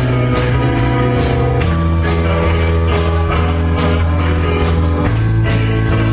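Praise-band music with a steady drum beat over guitar and sustained bass notes that change every second or two.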